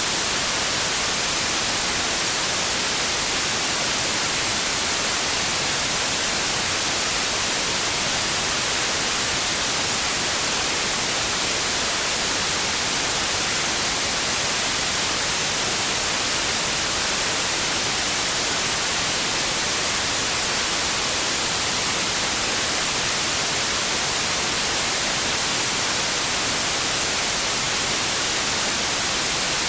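Steady synthetic white noise: an even, unchanging hiss spread across the whole frequency range, brightest in the treble.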